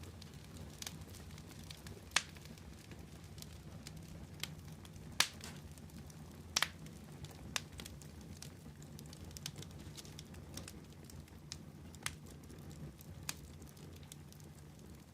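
Wood fire burning with a low, steady rumble, broken by sharp crackles and pops at irregular intervals, a few seconds apart.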